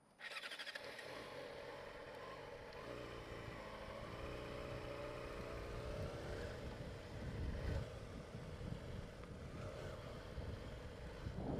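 2007 Yamaha YZF-R6's inline-four engine starting up just after the start, then running steadily as the bike moves off at low speed.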